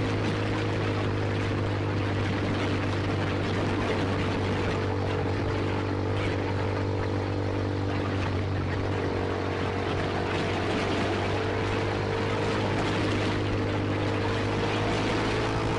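Single-cylinder Kawasaki Ninja 250 Mono's engine running through an SC-Project aftermarket exhaust, holding a steady engine speed with no revving.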